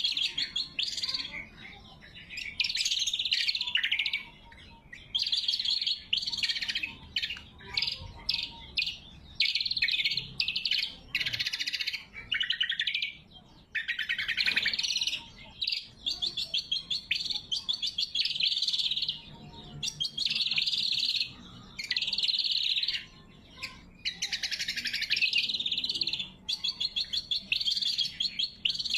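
Greater green leafbird (cucak kombo) singing: rapid, sharp chattering phrases full of fast trills, each a second or two long, following one another with only brief pauses.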